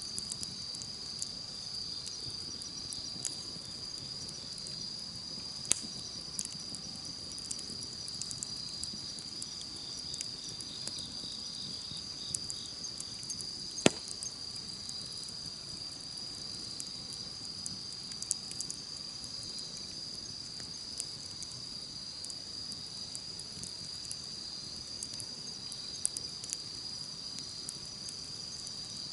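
Campfire crackling with scattered small pops and one sharp, loud pop about halfway through, over a steady high chirring of insects.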